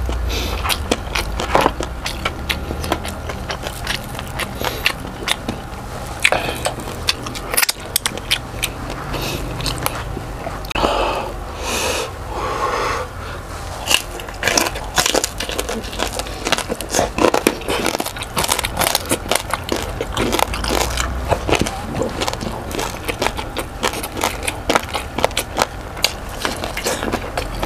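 Close-miked crunching and chewing of crispy deep-fried pork belly (lechon kawali), its crackling skin breaking in a steady run of sharp crunches throughout.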